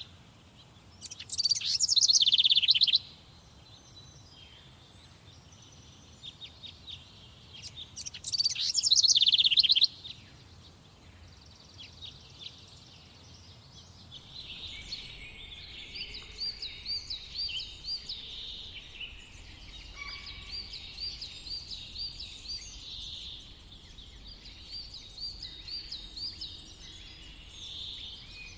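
Wild songbirds singing. Two loud, fast descending song phrases about six seconds apart, then from about halfway through a steady chorus of several birds with quicker repeated high notes.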